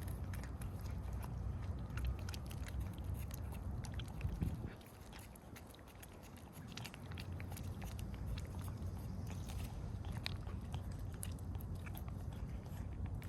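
Cats licking and smacking at Churu cat-treat paste: a run of small wet mouth clicks over a steady low rumble.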